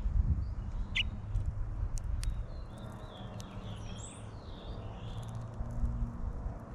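Red finch giving short, high squeaky chirps, one about a second in and a run of them between about three and five seconds in, with sharp clicks scattered throughout over a steady low hum.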